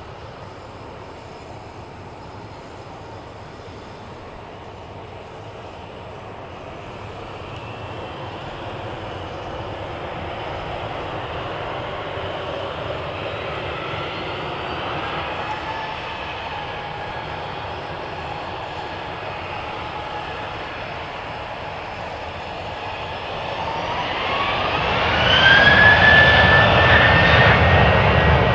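Engine noise that slowly grows louder, then a whine rising in pitch near the end that levels off as the engine becomes much louder, like an engine spooling up.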